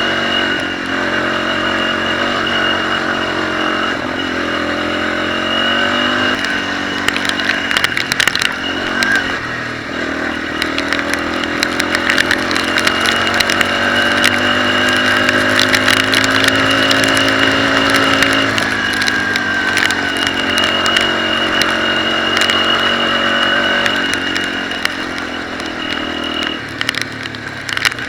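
Dirt bike engine running under way, its pitch rising and falling repeatedly as the rider changes throttle and gears. Scattered clicks and clatter come about a quarter of the way in.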